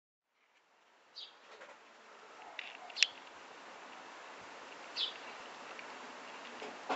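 Outdoor background hiss with a few short, high bird chirps that fall in pitch, about a second in, around three seconds (the loudest) and five seconds in. The sound fades in over the first second.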